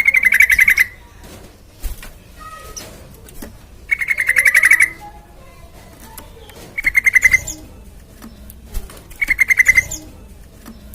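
Yellow-vented bulbul (trucukan) singing four short, fast trills of repeated notes, each under a second long and a few seconds apart.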